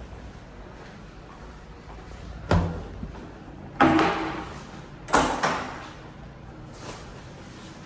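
Restroom doors banging and clunking shut: three sharp knocks about a second and a half apart, the third with a second knock right after it, each ringing out briefly in a hard-surfaced room, and a faint knock near the end.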